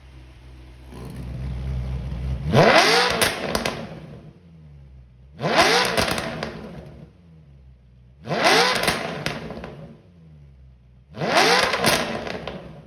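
Maserati Quattroporte 4.2-litre V8 through a custom variable-valve exhaust, revved in four quick blips about three seconds apart. Each rev climbs sharply and drops back to a low idle.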